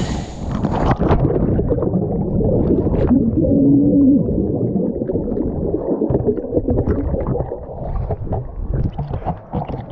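Loud, muffled rumbling and gurgling of water.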